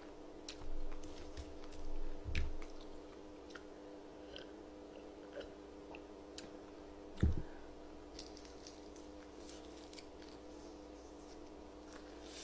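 Close-miked chewing and biting of food, with scattered small clicks and a dull knock about seven seconds in, over a steady low hum.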